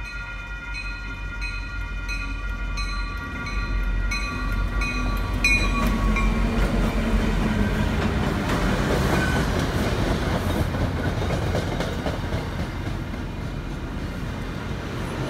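Railroad crossing bell ringing with a steady beat, about two strikes a second, until about five seconds in. A train then passes close by with a loud rumble and wheel clatter on the rails; the sound is loudest in the middle and eases off near the end.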